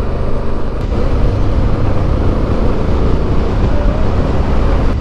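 Motorcycle engine running at a steady cruise, with a heavy low rumble of wind and road noise.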